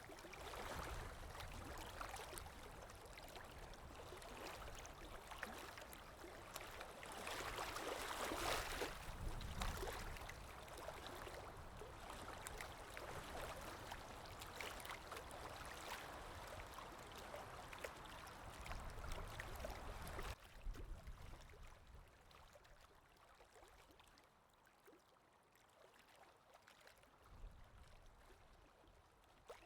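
Faint steady outdoor rushing noise, swelling a little about a third of the way in. It cuts off abruptly about two-thirds of the way through, leaving near silence with a few faint ticks.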